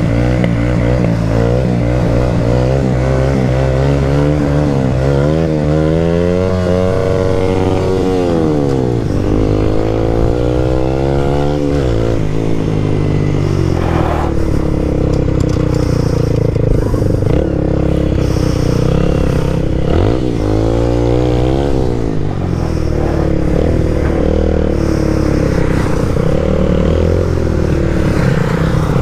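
Motorcycle engine running, revved up and down several times, with the pitch rising and falling between steadier stretches.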